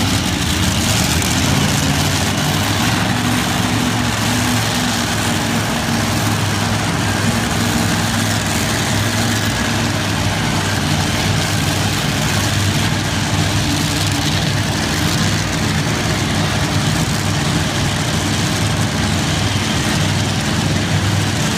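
Tractor engine running loud and steady, its deep tone shifting slightly in pitch now and then.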